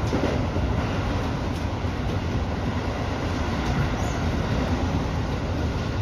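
Tobu Urban Park Line express train running steadily at speed, heard from inside the front of the train: a continuous rumble of wheels on rails and running gear, with faint regular clicks about once a second.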